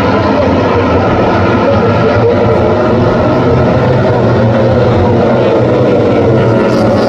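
MotoGP racing motorcycles' four-cylinder engines running on track: a loud, steady engine note whose pitch drifts slightly up and down.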